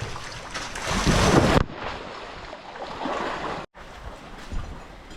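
Rushing, splashing water with wind on the microphone, and a louder rush about a second in that cuts off suddenly.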